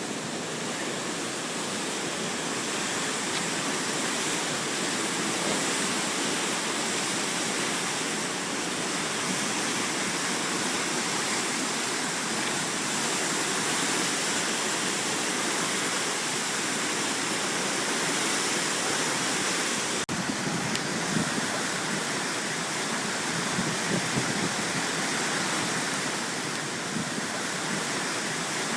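Floodwater in a swollen mountain brook rushing steadily, a dense, unbroken water noise; the tone shifts abruptly about two-thirds of the way through.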